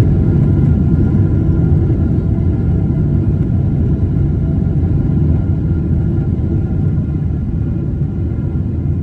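Jet engine noise from a landing Boeing 777: a loud, steady, low sound with faint high steady tones above it, slowly fading.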